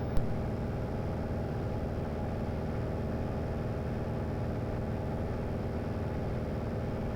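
Cessna 182 Skylane's piston engine and propeller droning steadily in cruise, heard inside the cabin, with a single short click about a quarter of a second in.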